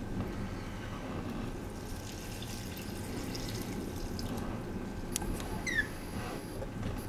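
Blizzard wind buffeting the microphone as a steady low rumble, with a sharp click about five seconds in and a short, high, falling chirp just after it.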